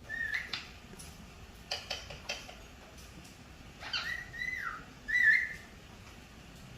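Pet parrot whistling: three short whistled notes, the middle one held and then dropping in pitch, with a few sharp clicks between them.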